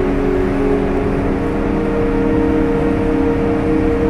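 Electric train running along the line, heard from inside the carriage: a steady rumble of the running gear with a low hum of several tones, one of which drops in pitch about a second in.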